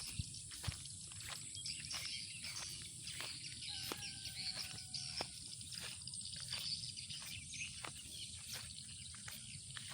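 Rice-field ambience: insects keep up a steady high-pitched drone while a sharp tick repeats about two to three times a second. A brief steady tone sounds about four seconds in.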